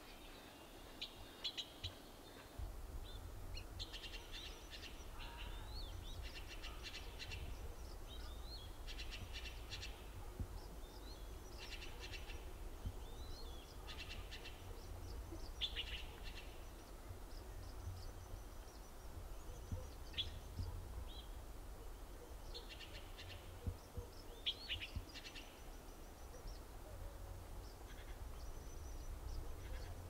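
Birds chirping and twittering in short, high calls, scattered through the whole stretch, over a low steady rumble that comes in about two seconds in.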